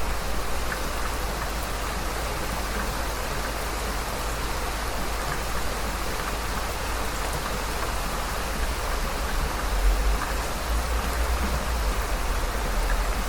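Heavy rain falling steadily as an even hiss of countless drops. A deep low rumble swells briefly about ten seconds in.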